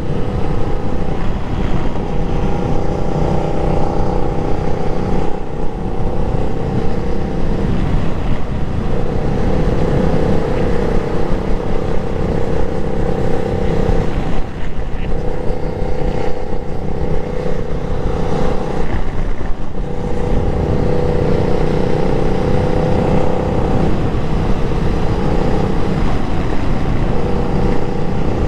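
Motorcycle engine running under way over a heavy rush of wind and road noise. The engine note dips and comes back about four times, roughly every five or six seconds.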